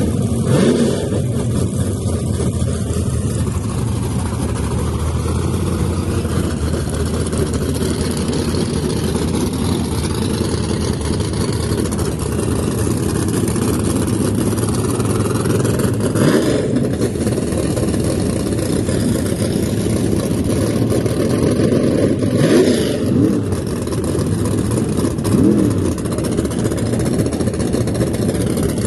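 Drag car engine running loudly, revved up briefly a few times.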